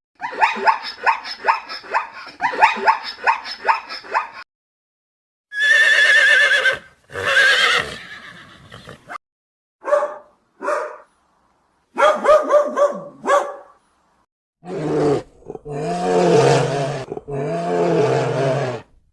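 A string of animal calls in separate short clips with silent gaps between them: a rapid run of pulsed calls first, then several shorter calls with wavering pitch, then three long, deep calls near the end.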